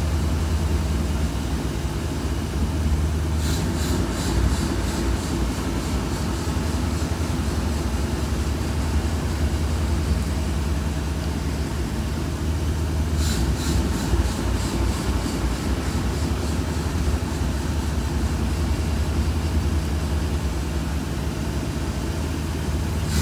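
1966 Cadillac's 7-liter V8, fed by a Holley Sniper throttle-body fuel injection, running at a fast idle of around 1,200 rpm that the Sniper's idle air control is not holding steady: the idle hunting. A rapid high ticking comes in briefly twice, a few seconds in and about halfway.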